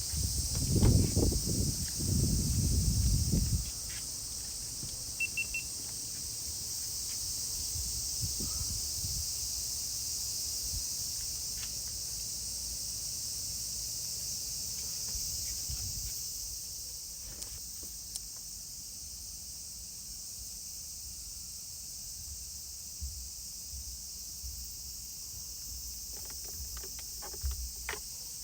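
Steady high-pitched insect drone, with low rumbling for the first few seconds and a few short clicks near the end.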